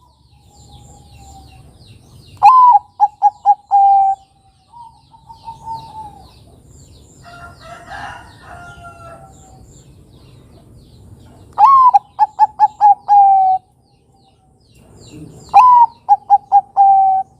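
Zebra dove (Bangkok-bred perkutut) cooing: three loud song phrases, each a rising first note followed by a quick run of short staccato coos and a longer held final coo, with softer cooing between the phrases.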